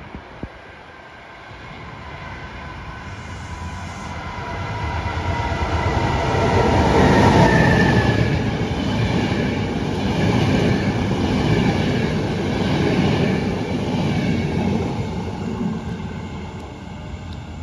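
A train passing through at speed. It grows louder on approach, with tones that drop in pitch as it goes by about seven seconds in. The wheels then run on over the rails with a steady rhythm as the cars pass, fading near the end.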